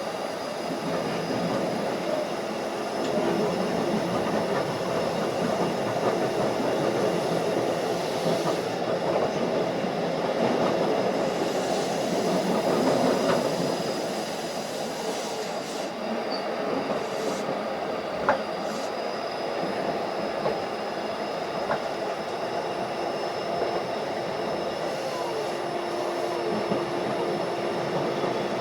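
Running sound of a Keikyu 1500 series electric train with field-chopper control, moving at speed: a steady rumble of wheels and motors on the track. A sharp click sounds about 18 seconds in, and a low steady tone comes in near the end.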